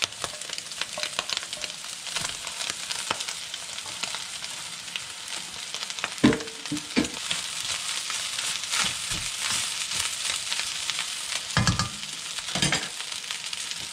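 Frying sizzle in a wok as cooked rice is tipped onto diced ham, carrot and scrambled egg frying in peanut oil, with many small clicks and a few louder knocks from stirring in the pan.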